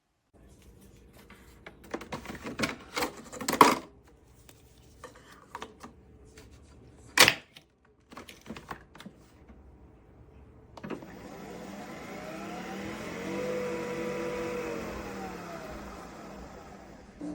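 Nespresso Vertuo Pop+ capsule coffee machine: clicks and knocks of handling, with a sharp click about seven seconds in, then from about eleven seconds its motor spins up with a whine that rises, holds and falls away as the machine spins the capsule.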